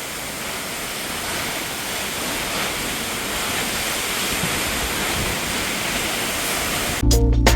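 Perrine Coulee Waterfall's water falling, a steady rushing noise that grows slowly louder. Guitar-and-bass music cuts in abruptly near the end.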